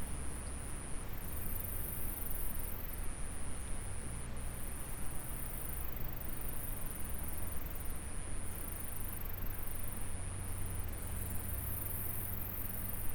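Insects trilling in one steady, very high-pitched note that breaks off briefly every second or two, over the even rush of a flowing stream and a low rumble.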